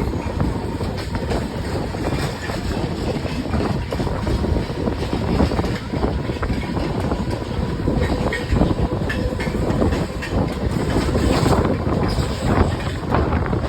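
Mumbai suburban local train running along the track: a steady rumble with the wheels clicking over rail joints.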